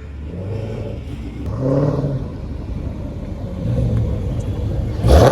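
Hemi V8 car engine idling with a rough low note and being revved in short blips, the pitch rising and falling twice, then a sudden loud blast near the end.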